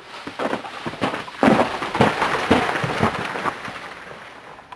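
Ice crunching and crackling: a rough burst of crackles starts about a second and a half in, then thins out and fades.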